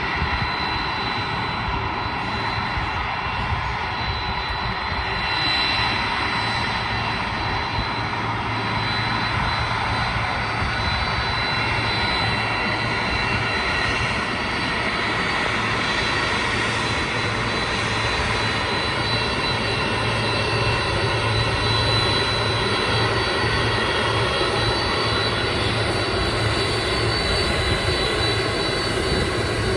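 General Electric CF6 turbofan engines of a Boeing 767 running at taxi power: a steady jet rumble with high, even whining tones on top.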